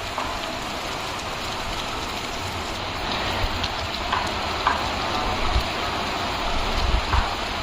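Steady rainfall, an even hiss of drops falling without pause, with a few brief low thuds.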